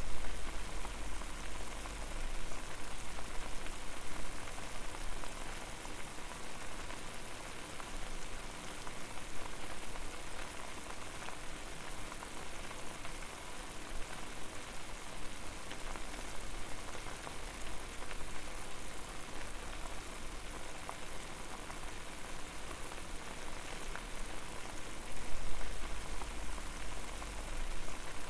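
Water boiling over a fire: a steady, dense bubbling. A low rumble swells briefly at the start and again near the end.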